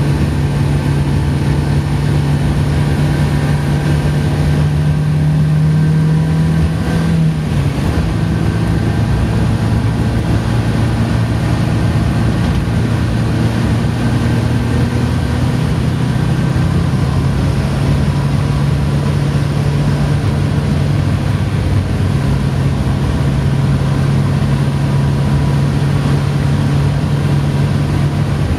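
Morris Minor's Marina 1300 four-cylinder engine running under way, heard from inside the car over steady road and wind noise. The engine note climbs, drops sharply about seven seconds in, then slowly rises again.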